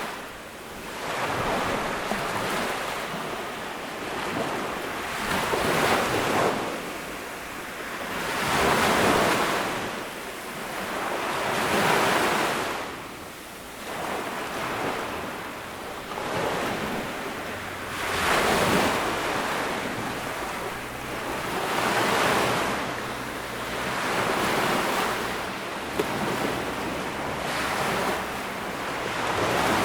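Ocean surf breaking on a beach: a washing hiss that swells and fades with each wave, about every three to four seconds.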